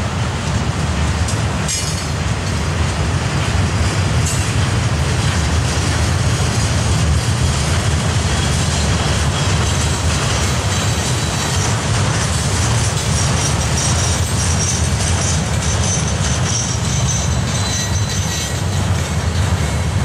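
Freight train of gondola cars rolling past close by: a steady rumble of steel wheels on the rails, with faint high squeals from the wheels coming and going.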